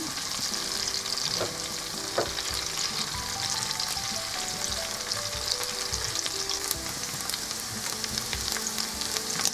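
Sliced onions and chopped chili frying in red palm oil in a pan, a steady sizzle dotted with fine crackles, stirred now and then with a spatula.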